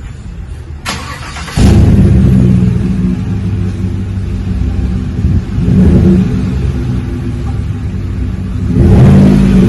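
2019 GMC Yukon's 5.3-litre V8 running through a Flowmaster 40 muffler with the rear resonator removed and side-exit tips, giving a deep, throaty exhaust note. It jumps sharply louder about a second and a half in and is revved again around six seconds and near the end.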